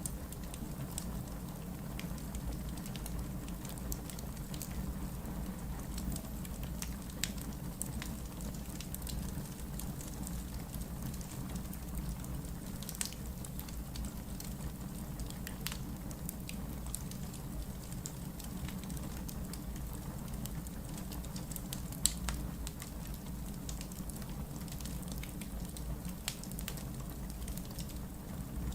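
Wood fire burning in a fireplace: scattered sharp crackles and pops over a steady low rumble, with one louder pop about twenty-two seconds in.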